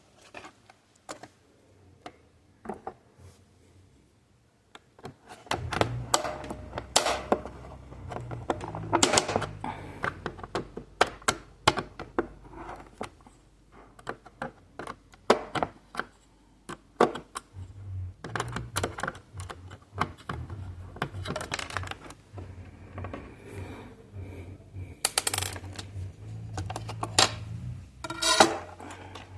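Plastic audio cassette being opened and handled: irregular sharp clicks and taps of its small screws and plastic shell parts. The clicks are sparse for the first few seconds, then come thick with handling noise, with a loud cluster near the end.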